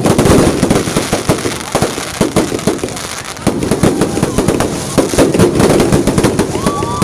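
Firecrackers and fireworks going off in rapid, overlapping bangs and crackles, easing a little in the middle and picking up again. A short whistling tone rises and holds near the end.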